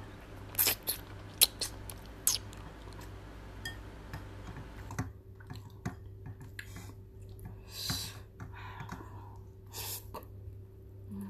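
A person eating barbecue chicken wing with rice and melted cheddar: wet chewing and lip smacks, with several sharp clicks in the first few seconds and softer mouth sounds after.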